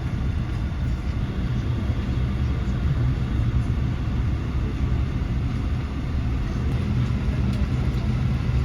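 Steady low rumble of an Airbus A380 airliner cabin as the aircraft taxis after landing.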